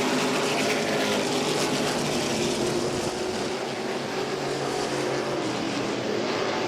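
A field of modified race cars running laps on a short oval track, their engines making a steady, overlapping drone.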